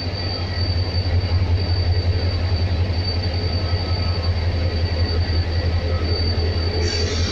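HGMU-30R diesel-electric locomotive hauling a departing passenger train slowly along the platform: a steady low engine drone under the rumble of the rolling coaches, with a thin steady high tone above it.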